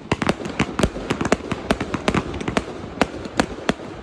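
Fireworks going off: a rapid, irregular barrage of sharp bangs and cracks, several a second, over a continuous crackle.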